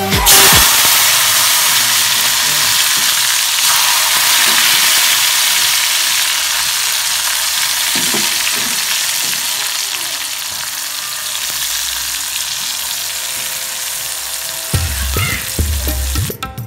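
Hot oil in a cast-iron kadai sizzling and bubbling as chillies and sliced onion fry. The sizzle starts suddenly and loudly just after the start, as the first ingredients hit the oil, then slowly dies down. Music with a beat comes in near the end.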